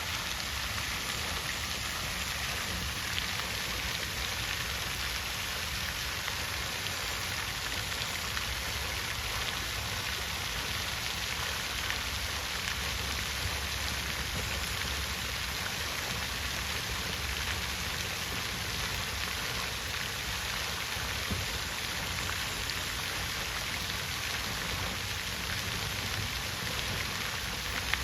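Water fountain splashing: a steady, unbroken spatter of falling water.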